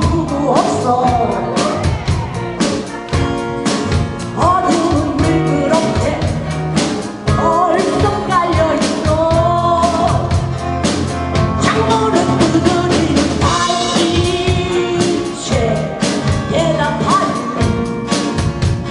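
Amateur band playing live, a lead singer over electric band accompaniment, with drums keeping a steady beat.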